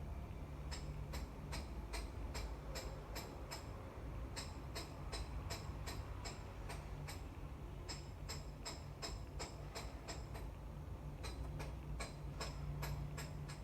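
Regular ticking, about three sharp ticks a second in runs of a few seconds with short breaks between, over a steady low hum.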